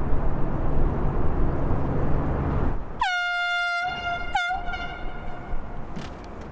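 Steady rumble of wind and the boat's engine. About three seconds in, a boat horn sounds one longer blast and then one short one, each dipping in pitch at its start. This is the sound signal requesting a swing bridge to open.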